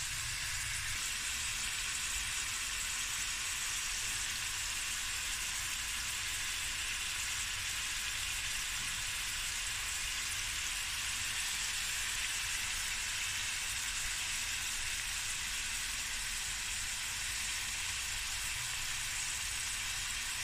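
Haddock fillets, onions and mixed vegetables frying in butter in a stainless steel pan, with a steady, even sizzle.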